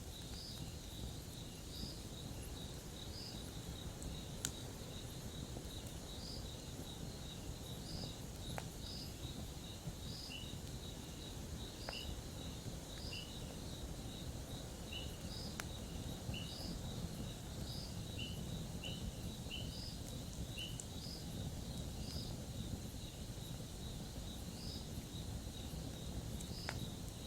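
A campfire burning with a steady low rush and a few sharp pops, over insects chirping: a continuous high trill with repeated chirps about once a second.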